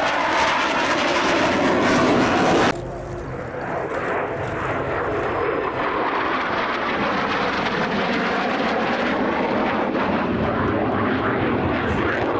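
Aircraft engines at an airshow: a loud aircraft pass that cuts off abruptly about three seconds in, then another aircraft's engine with a steady hum.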